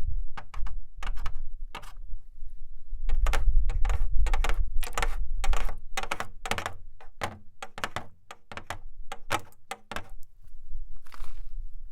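A nail worn on a fingertip tapping on a broken shelf: a long run of sharp, irregular clicks, a few a second, with a short scratch near the end.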